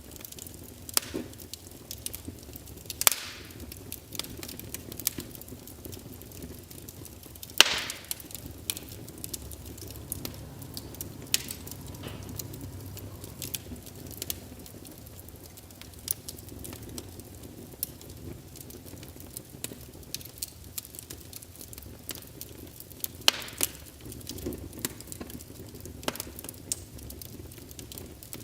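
Wood fire burning in a fireplace: irregular sharp crackles and pops from the logs over a steady low rumble of flame, with a few louder snaps among them.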